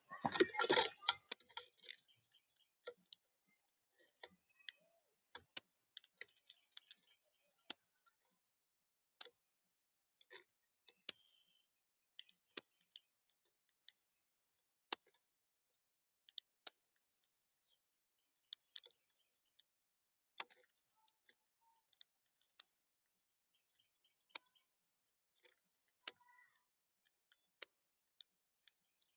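Northern cardinal giving its sharp, high chip call over and over, one short chip every second or two at an uneven pace. A brief scuffing noise comes at the very start.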